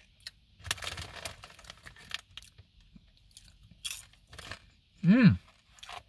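A person chewing cheese-coated popcorn, with a run of crunches in the first couple of seconds and a few more later. About five seconds in comes a short closed-mouth hum that rises and falls in pitch, the loudest sound.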